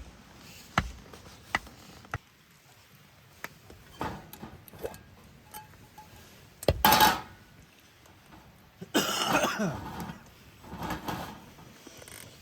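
Clinks and knocks of camp cookware and utensils being handled, with a few louder rustling bursts in between, the loudest about halfway through.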